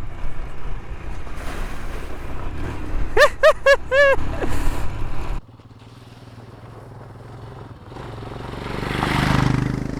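Royal Enfield Himalayan 411 single-cylinder motorcycle riding along a gravel road, engine and road noise steady, with four quick rising-and-falling calls in the middle. About five seconds in the sound drops off suddenly to a quieter engine, which then swells up again near the end.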